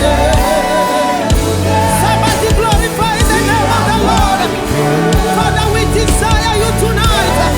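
Live gospel worship music: a singing voice with vibrato over a band with a steady bass line.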